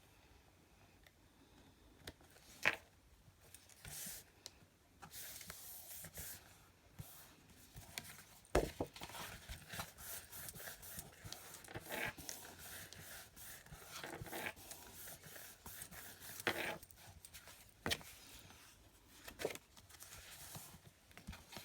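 Paper and cardstock being handled: intermittent rustling and sliding, with a few sharp taps of card on the work surface.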